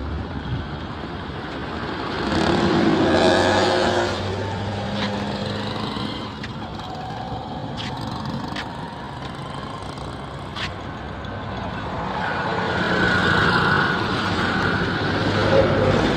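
Road traffic passing: vehicle engines and tyre noise that swell twice as vehicles go by, with a few sharp clicks in between.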